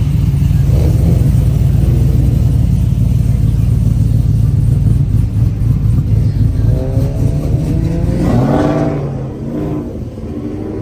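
Car engine running loud and revving, its low rumble dropping away about nine seconds in.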